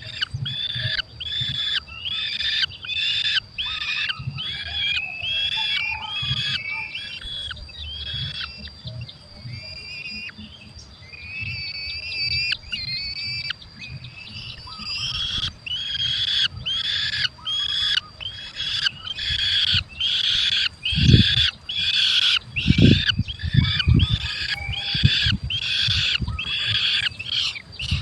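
Falcon chicks calling at the nest: harsh calls repeated about twice a second, which give way to thinner, drawn-out whistled notes for a few seconds midway before the rapid calling resumes. A few low thumps come near the end.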